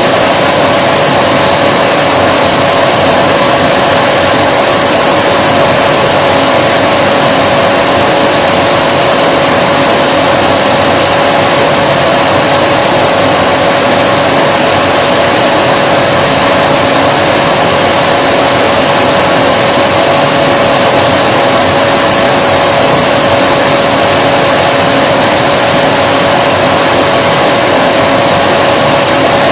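Vacuum cleaner motor running continuously: a loud, unchanging whoosh with a steady mid-pitched whine.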